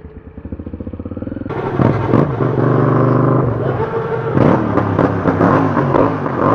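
A motorcycle idling with an even beat. After a cut about a second and a half in, a louder motorcycle engine runs under light throttle at walking-to-low speed, its pitch holding steady at first and then rising and falling with the throttle.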